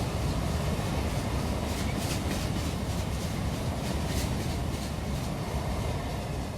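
Train passing: a steady rolling rumble with irregular sharp clicks over it.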